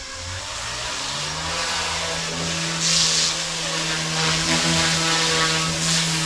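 Goosky S1 collective-pitch micro helicopter's electric motors and rotors spooling up, rising in pitch over about the first second, then running steadily in a hover. Two brief hissing swells come about three seconds apart.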